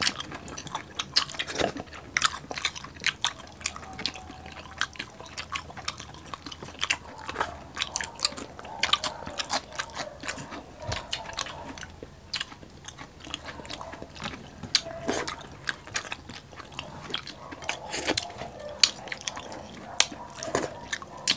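Close-miked chewing of crispy pork belly (liempo): a steady run of short wet clicks, smacks and crackles from mouths eating.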